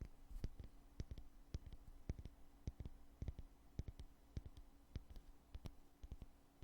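Lid of a foundation container being opened and shut over and over, a quick, uneven run of light clicks and taps, two or three a second.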